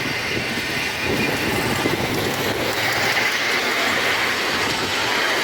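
Miniature railway train running on the track, its wheels clattering over the rails, with a higher-pitched sound coming up about halfway through.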